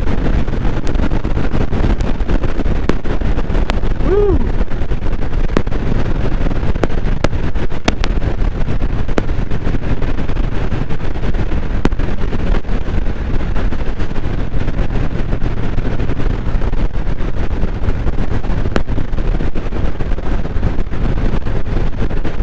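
Indian Chief Bobber's 116 cubic-inch V-twin running steadily at highway cruising speed, heard from the rider's seat.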